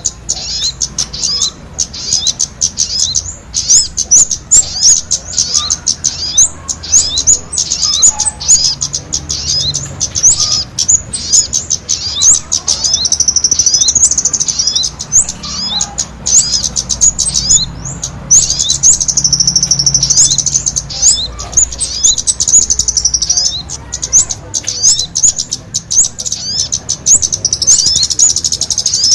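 Bird-trapping lure recording of sogon calls combined with kemade calls: a dense, rapid run of high chirps and twitters from small birds, with longer trilled phrases around the middle. It plays continuously, loud and busy, the 'ribut' (noisy) style meant to draw birds in.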